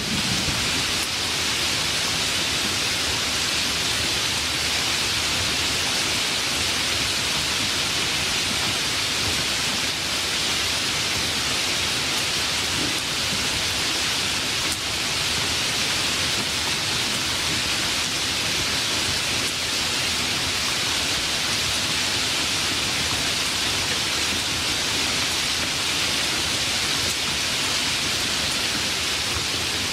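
Steady, even rain hiss of a downpour, with the last of a thunder rumble dying away right at the start.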